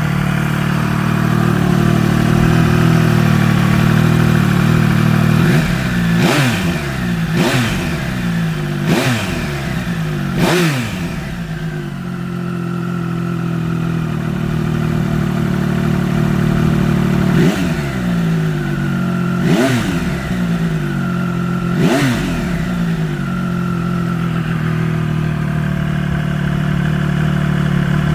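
Triumph Trident 800's inline-three engine idling through a Pipe Werx Werx-GP aftermarket exhaust, with sharp throttle blips. There are seven revs in two groups: four in quick succession about every second and a half, a spell of idle, then three more. Each rev climbs sharply and drops straight back to idle.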